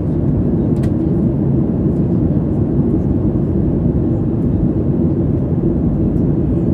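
Steady low-pitched noise inside the cabin of a Boeing 737-800 airliner, from its jet engines.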